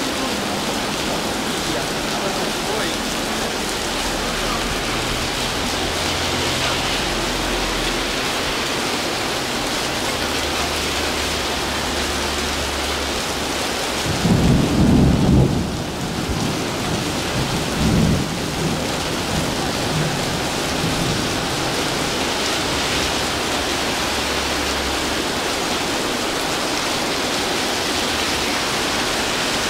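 Heavy rain pouring steadily. About halfway through, a loud low rumble lasting a couple of seconds, then a shorter one soon after.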